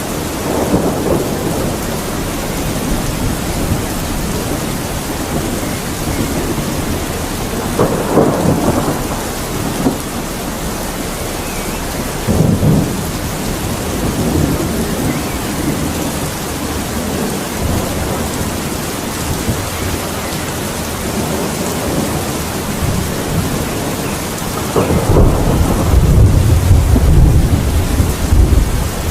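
Steady rain with rolls of thunder: short rumbles about a second in, around eight seconds and around twelve seconds, then a longer, louder rumble in the last few seconds.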